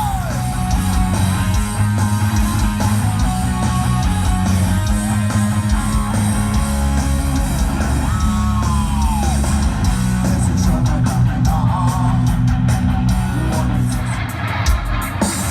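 Live rock band playing loud through a concert PA: distorted electric guitar over heavy bass.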